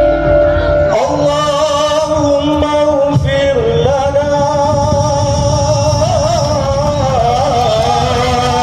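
Madurese ul-daul (tong-tong) ensemble music playing a sholawat: a sustained, wavering melody line over dense drums and percussion.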